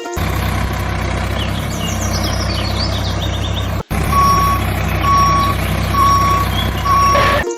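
A vehicle engine runs with a steady low drone. After a sudden break about four seconds in, a reversing alarm beeps four times, about once a second, over the engine.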